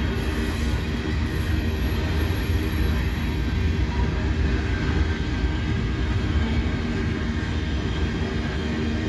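Freight train cars rolling past, a steady noise of steel wheels on the rails.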